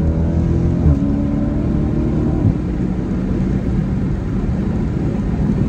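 Dodge Challenger SRT 392's 6.4-litre HEMI V8 pulling under acceleration, heard from inside the cabin. Its pitch drops in two steps, about a second in and again about two and a half seconds in, as it shifts up. It then settles into a steady lower drone with road noise.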